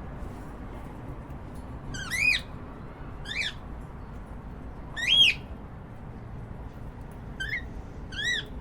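Cockatiel calling: five short chirping calls, each rising then falling in pitch, the loudest about five seconds in, over a steady low background noise.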